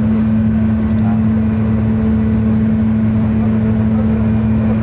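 A large engine running at a steady speed, a loud, even low hum that does not change in pitch.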